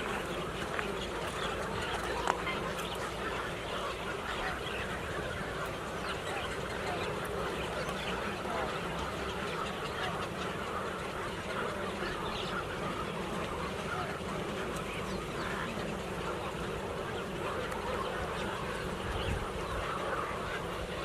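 A large flock of birds calling all at once, a dense, unbroken chorus of many overlapping calls that sound like ducks and geese. There is one brief knock a little over two seconds in.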